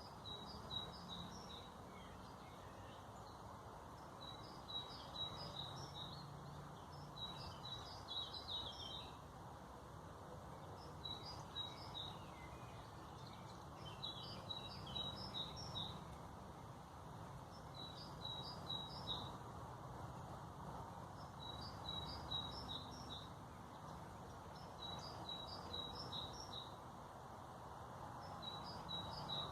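A songbird repeating a short phrase of quick, high notes about every three to four seconds, nine times in all, over a steady low background hum.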